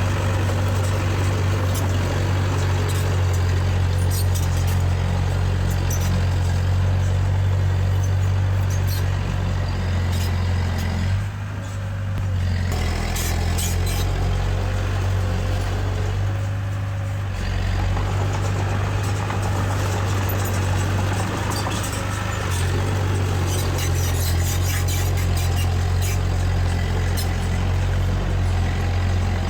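Heavy diesel engine of earthmoving machinery running steadily under load, with scattered metallic clanks. The engine eases off briefly twice, about eleven and sixteen seconds in.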